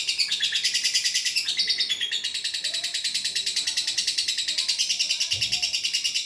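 Lovebird singing its long-duration chattering song: a fast, unbroken trill of high, shrill notes that goes on without a pause.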